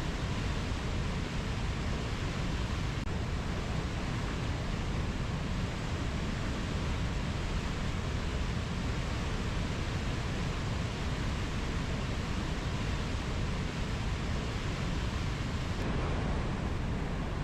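Rainforest nature ambience: a steady, even rushing noise, deepest in the low end, with no bird or insect calls standing out. Its texture shifts slightly about sixteen seconds in.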